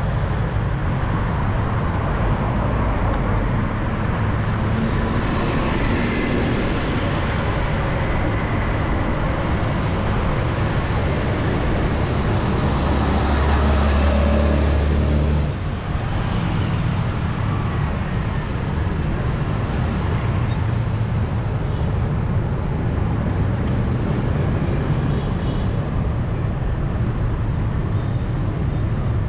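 Busy city street traffic heard from a moving bicycle: a steady mix of motor vehicles passing. About twelve seconds in, a heavy vehicle's low engine rumble grows to the loudest sound, then drops away suddenly about three seconds later.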